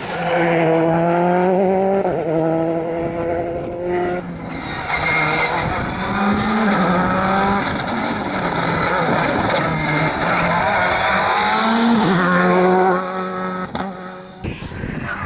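Rally car engine at full throttle, accelerating hard through the gears: its pitch climbs, drops back at each upshift, and climbs again. It is loud, with upshifts about two and four seconds in and again near the end.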